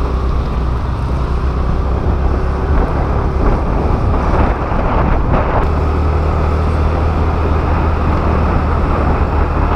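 Honda Activa scooter being ridden: steady engine and road rumble under wind rushing over the microphone.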